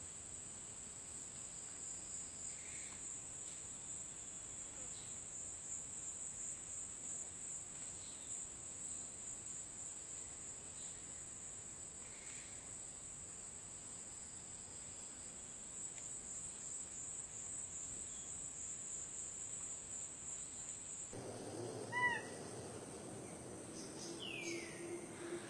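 A steady high-pitched insect trill, with a few faint bird calls over it. Near the end the background changes and a bird gives short, sharp whistled calls that fall in pitch, the loudest sounds in the stretch.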